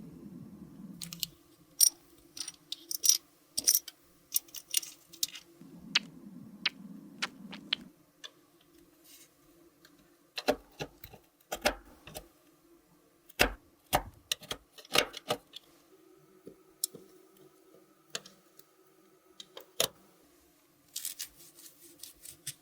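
Sharp clicks and taps of small cosmetic containers and tools being handled, in irregular clusters. A low hum sounds briefly at the start and again for a couple of seconds a few seconds in.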